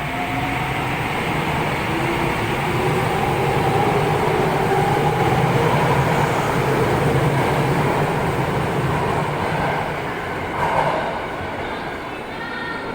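Electric commuter train moving through the station. A steady rumble runs under a faint motor whine that climbs slowly in pitch. It grows louder toward the middle and then eases off, with a brief knock about eleven seconds in.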